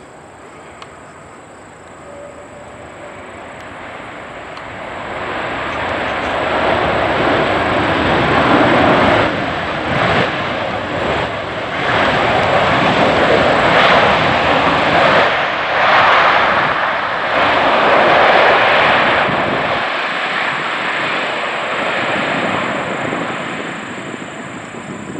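Boeing 767 jet engines passing close by as the plane comes in to land: a rushing roar that swells over a few seconds, stays loud for about a dozen seconds, then fades away.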